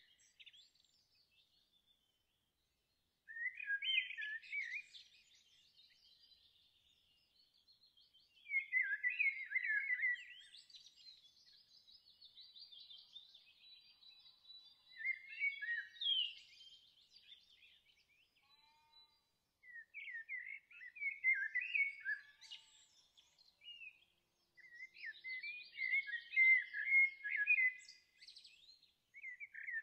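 Songbirds singing: about five bursts of quick, high chirps and trills a few seconds apart, with fainter twittering and quiet gaps in between.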